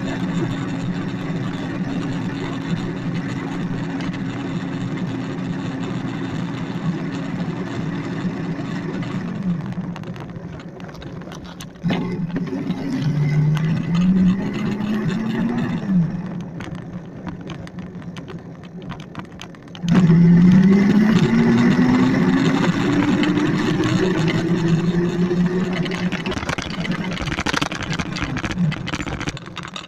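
Electric dirt bike's motor whining as it is ridden. The whine rises in pitch as the bike speeds up, about 13 seconds in and again from about 20 seconds in, when the sound jumps abruptly louder. Throughout there is a rushing noise, likely wind and rolling on the ground.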